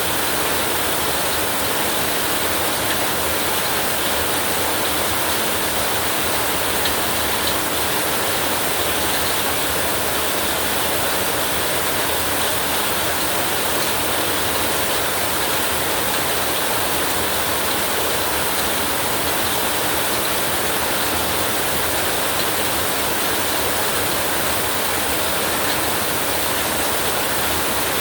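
Heavy rain falling steadily, a dense, even hiss with no breaks or changes.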